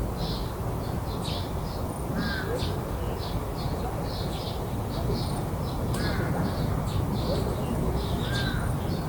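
Garden ambience with crows cawing a few times over a steady run of short, high chirps, about two a second, and a low background rumble.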